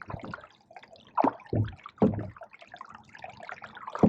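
Canoe paddles dipping and pulling through pond water, with splashes and drips off the blades. There are a few separate strokes, about half a second to two seconds apart.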